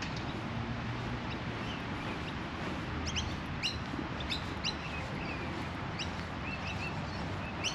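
Birds chirping: short, sharp calls, several in quick succession from about three seconds in and a few more near the end, over a steady background noise.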